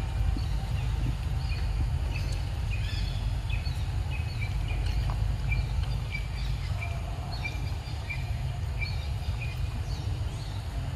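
Birds calling outdoors: one repeats a short high chirp about every two-thirds of a second, with other scattered chirps above it, over a steady low rumble.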